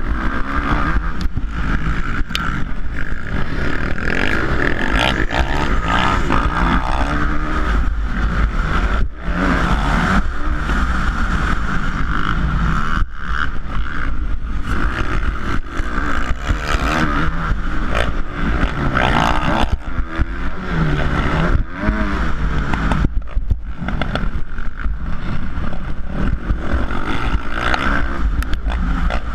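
450-class motocross bike engine revving up and down without pause during a race, its pitch rising and falling with throttle and gear changes, over a steady low rumble of wind on the microphone.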